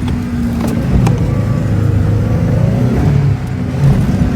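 Truck engine revving hard under load, the pitch rising and falling as it drives off-road through brush, with a few sharp knocks.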